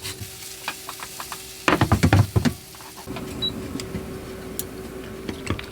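A block of Parmigiano grated by hand: scattered scrapes, then a quick run of rasping strokes about two seconds in, followed by a steady hiss with a faint low hum.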